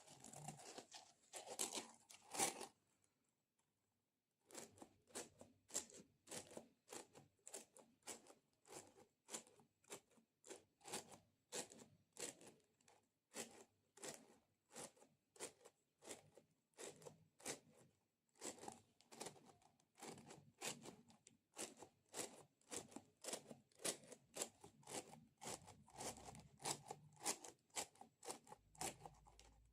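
ASMR sticky sounds: a tacky, sticky surface pressed and peeled over and over, each peel a short crackle, about two to three a second, with a brief silent break a few seconds in.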